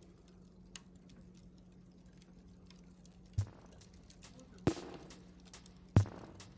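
Three sharp knocks about a second and a quarter apart, each a short thud with a brief ring, each louder than the one before, over a faint steady hum.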